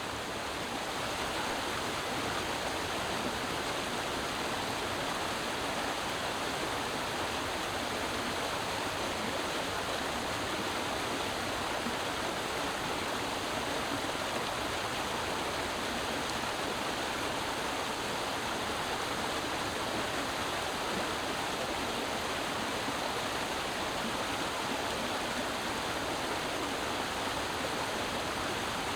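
Creek water flowing over rocks, a steady rushing and babbling.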